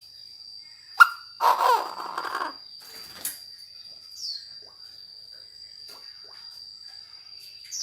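Chinese francolin calling: a sharp note about a second in, then a harsh call lasting about a second, over a steady high insect trill.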